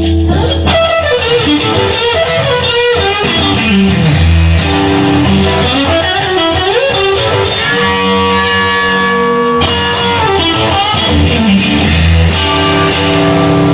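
Instrumental song passage without singing: guitars playing over a steady bass, with some notes gliding up and down in pitch.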